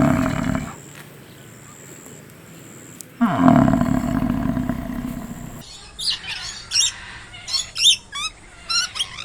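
Two loud, low animal calls, the second starting with a falling pitch, followed from about six seconds in by a run of quick, high bird chirps.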